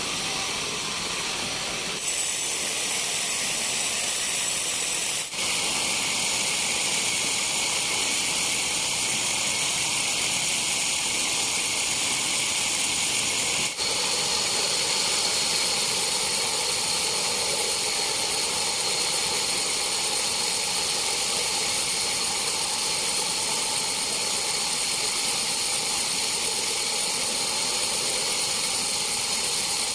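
Sawmill saw running steadily, a high hiss with a thin steady whine, breaking off briefly twice.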